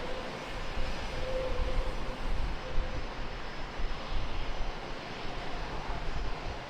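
Jet airliner engines running steadily, a broad rushing noise with a faint whine that shifts a little in pitch; a second, higher whine comes in near the end.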